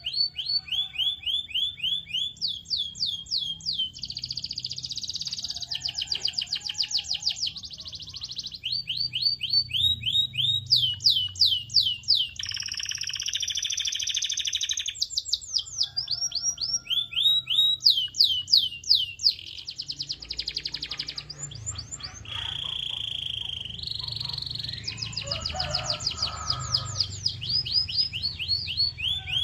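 Canary singing a continuous song of fast repeated notes that sweep down in pitch, changing to a new phrase every second or two. A few longer buzzy rolls come in along the way.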